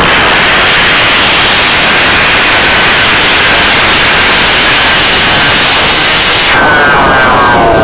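Vespino R1 moped's 65cc two-stroke engine revved hard, so loud that it comes through as a distorted, hissing blare. Near the end the revs fall away.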